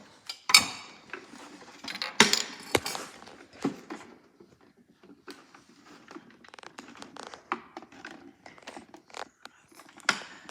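Clicks, knocks and rustling of hard plastic toy washing machine parts being handled and fitted back together, with a few louder knocks in the first three seconds and again near the end.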